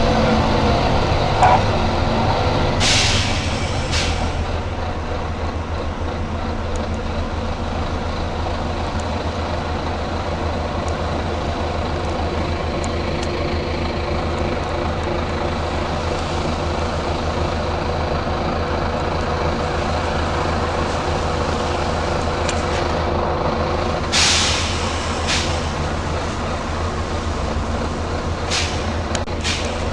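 Volvo B9TL bus's diesel engine running steadily with a low hum, broken by sharp compressed-air hisses from the bus's air system: two short ones about three seconds in, a longer burst past the twenty-second mark followed by another, and two quick ones near the end.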